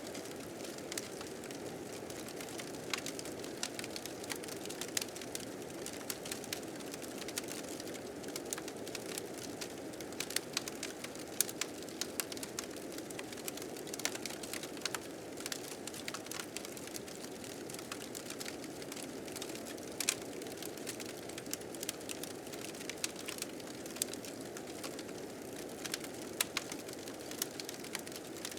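Fire crackling with frequent sharp pops over the steady, low rushing of blizzard wind.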